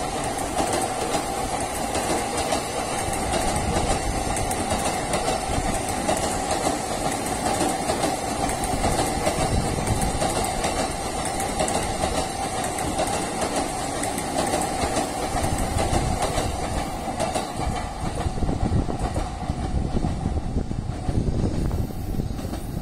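Joban Line electric commuter train running along the tracks, a steady noise that holds level without breaks.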